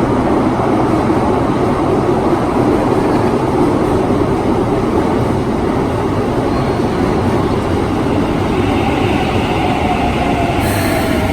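Narita Sky Access line train running, a loud, steady rumble of the cars on the track, with a whine that falls in pitch near the end.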